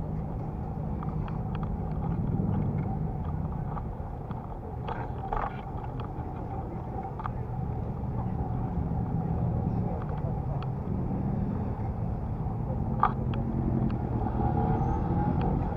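Steady low rumble of road and traffic noise heard while riding an electric bicycle, with a few light clicks and knocks, one about five seconds in and a sharper one near the end.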